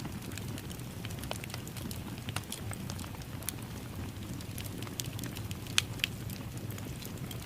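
Wood fire crackling in a fireplace: a steady low rumble of flames with scattered sharp pops and snaps, one louder pop about six seconds in.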